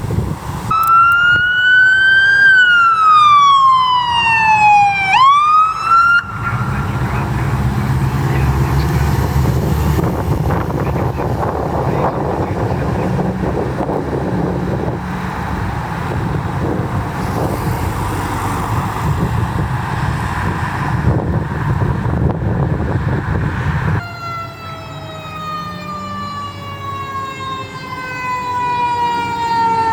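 Emergency vehicle siren wailing, its pitch rising and falling slowly, then swooping back up about six seconds in. For most of the rest a heavy vehicle's engine and road noise go by with no siren. Near the end another siren's tone falls slowly and steadily in pitch.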